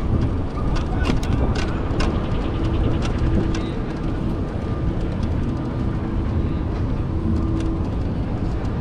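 Steady vehicle rumble, loudest at the low end, with a few sharp clicks a second or two in and a faint hum that comes and goes.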